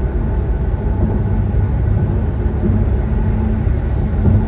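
Steady low road rumble and engine noise inside a moving vehicle's cabin while driving.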